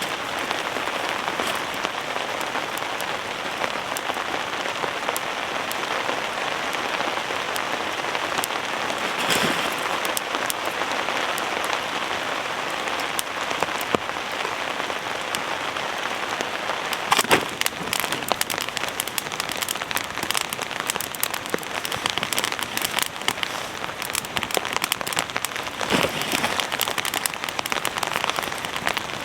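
Heavy rain falling steadily on a fabric shelter overhead, with sharp ticks of heavier drops striking close by. The drop strikes grow more frequent from about halfway.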